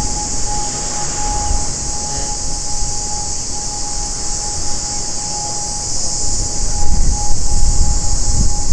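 Distant steady drone of an ATR 72-600 turboprop airliner on approach to land, under wind rumbling and buffeting the microphone. A constant high hiss and a thin steady whistle-like tone run through it.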